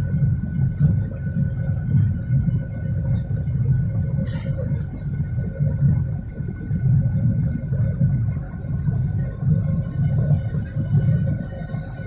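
Cabin noise of a Boeing 737-800 on departure: the deep, surging rumble of its CFM56-7B engines and rushing air, with a thin steady whine above it. A brief click or rattle about four seconds in.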